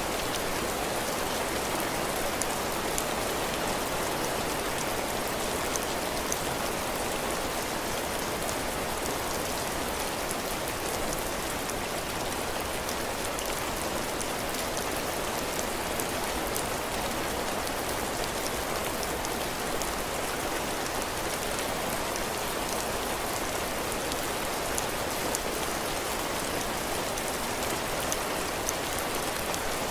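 Heavy rain falling steadily on a cabin porch, drops pattering on the floor and roof in a constant wash of noise.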